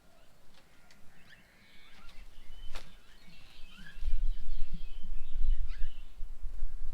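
Small birds chirping and calling in quick, overlapping short notes. A single sharp click comes near the middle, and about four seconds in a loud low rumble sets in under the birdsong.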